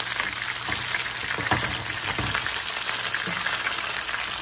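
Snook nuggets frying in olive oil in a nonstick pan: a steady crackling sizzle.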